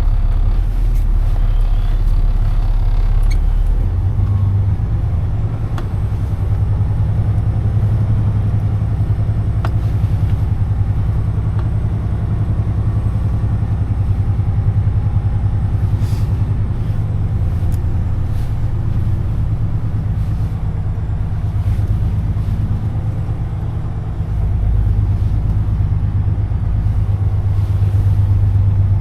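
Semi-truck diesel engine running at low speed while the truck creeps forward, a steady low rumble whose note rises about four seconds in and drops back briefly a little after twenty seconds.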